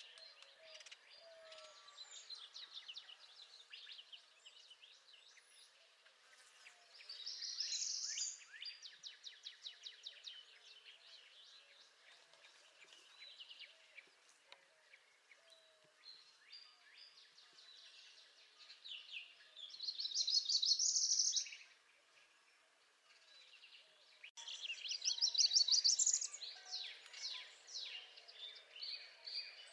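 Northern parula singing a high-pitched song three times, each about a second and a half long, a few seconds into the stretch and twice more near the end. Other songbirds chirp and trill continuously underneath.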